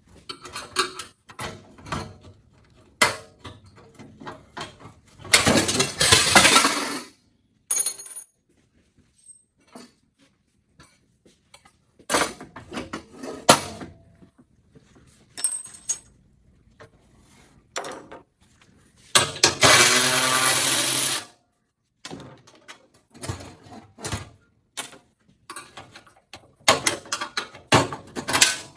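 Hand-tool work on truck body parts: scattered clicks and knocks of tools and plastic parts, with a power tool running in two short bursts, once about five seconds in and again near two-thirds of the way through.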